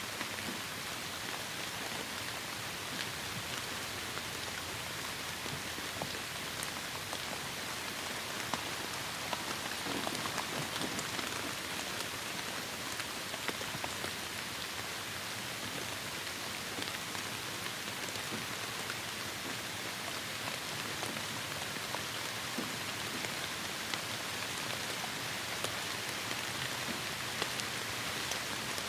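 Steady heavy rain falling, a dense even hiss with scattered individual drops ticking on a surface.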